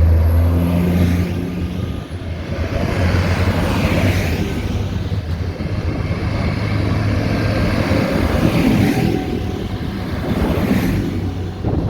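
Tractor engines running as a line of tractors drives past, with a deep engine hum for the first two seconds, then several tractors going by one after another.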